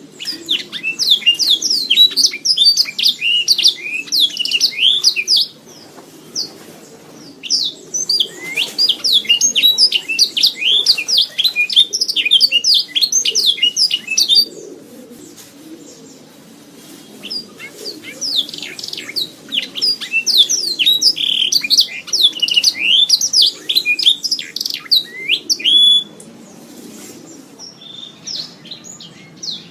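Domestic canary singing long runs of rapid, high sweeping trill notes, in three bursts of several seconds each with short pauses between, over a faint low background murmur.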